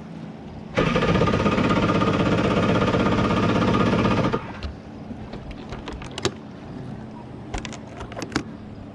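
Kawasaki X2 jet ski's 650 two-stroke engine being cranked on its electric starter for about three and a half seconds without catching, then cut off suddenly. A few sharp clicks follow.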